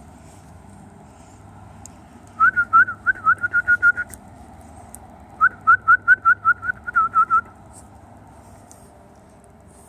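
Two quick runs of short, clear whistled notes, about six notes a second, each run lasting around two seconds with a pause between them.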